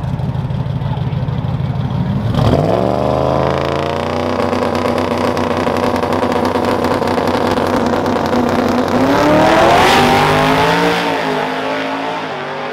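A drag-racing truck's engine launches hard from a low rumble about two and a half seconds in. Its pitch climbs steadily as it accelerates, loudest near the middle, then falls away in steps near the end.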